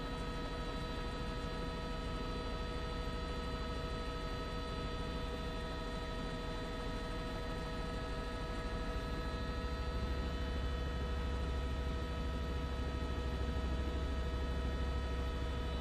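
Steady drone of a news helicopter's cabin noise through the reporter's open microphone: a set of fixed tones over a low rumble, the rumble growing stronger about ten seconds in.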